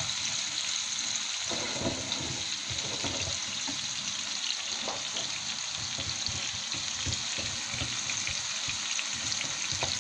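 Cubes of red kabocha squash sizzling steadily in hot oil in a frying pan, with faint scattered knocks and scrapes of a wooden spatula stirring them.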